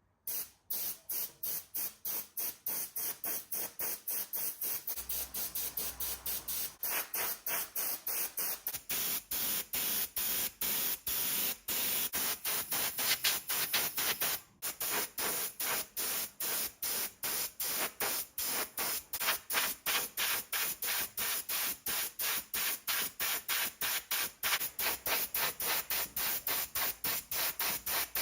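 Hissing spray that pulses on and off rapidly, about three times a second.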